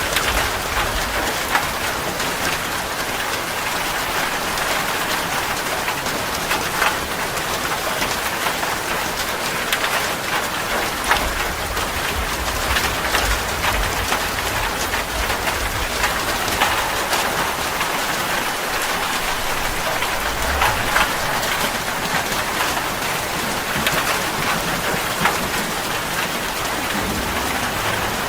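Steady heavy rain falling, with many distinct drops striking a surface and a low rumble now and then.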